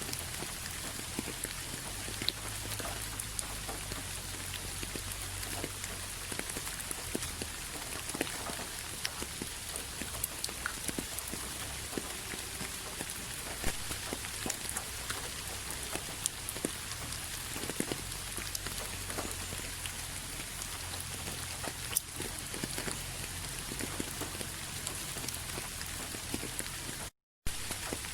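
Steady rain falling on a surface: an even hiss of rain with many separate drops ticking through it. The sound cuts out completely for about half a second near the end.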